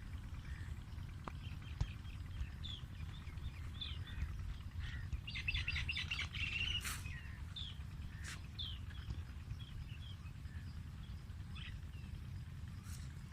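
Birds chirping in short, scattered calls, busiest around the middle, over a steady low rumble.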